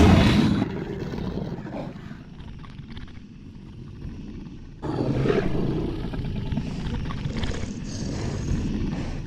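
A deep, rough monster growl used as a horror-film sound effect. It is loud at the start, falls away, then comes back loud about five seconds in and keeps on.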